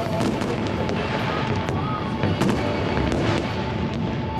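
Fireworks display: many shells bursting and crackling in quick succession, with no let-up.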